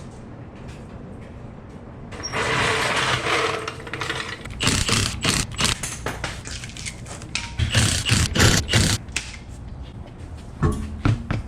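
Metal tools and car parts being handled: a hiss lasting about two seconds, then a rapid run of sharp metallic clinks, knocks and scrapes, with a few more near the end.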